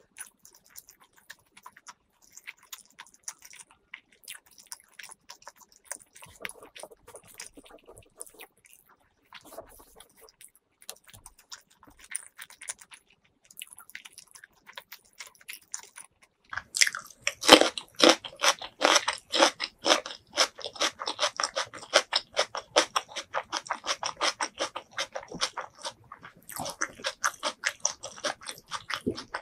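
Close-miked chewing of food. It is soft and sparse at first. About halfway through it turns into fast, loud, crunchy chewing, about four or five bites a second.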